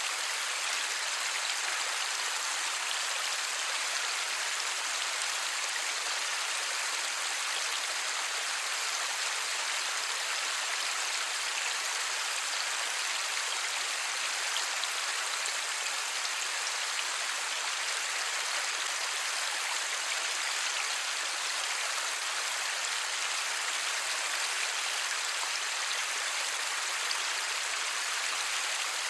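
Light rain falling steadily, an even hiss of many small drops with no thunder.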